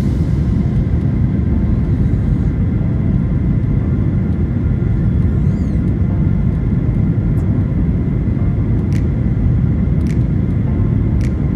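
Steady low rumble of cabin noise inside a Boeing 737 airliner in flight, with a few faint clicks in the second half.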